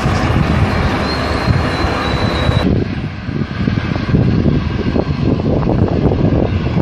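Heavy wind buffeting on the microphone over the rumble of aircraft engines. A thin high whine runs for about a second and a half, then the sound changes abruptly to a lower, gusty rumble.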